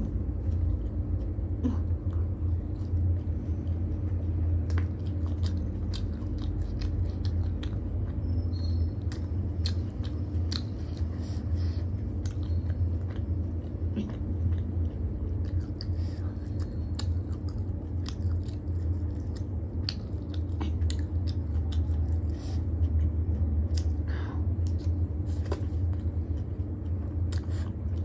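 Close-miked chewing and biting of chow mein noodles and momos: wet mouth sounds and many short clicks, over a steady low hum.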